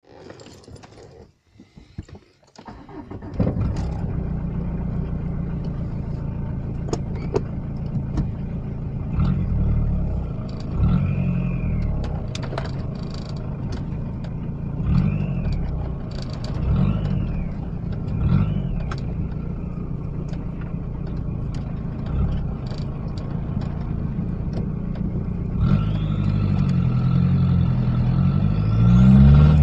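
Citroën ZX Turbo D turbodiesel engine, straight-piped, cold-started: a few seconds of quiet cranking, then it catches about three seconds in and settles into a steady idle. It is blipped several times, each blip bringing a turbo whine that rises and falls, and it is revved longer near the end with the whine climbing high.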